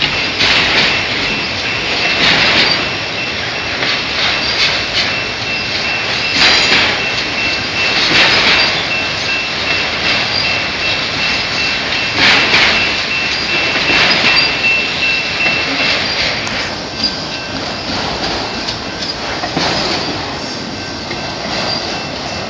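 Freight train of autorack car-hauler cars rolling past, steel wheels clattering over the rail joints in loud clacks every couple of seconds. A thin, steady high tone sounds over the rumble and fades out about two-thirds of the way through.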